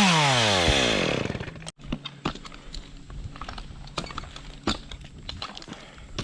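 Chainsaw running at full throttle, then let off so the engine winds down in pitch over about a second and a half. After that come scattered light clicks and knocks.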